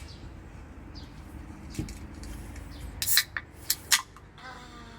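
A Desperados beer being handled and opened: a soft knock just before two seconds in, then a quick cluster of sharp clicks and clinks about three seconds in.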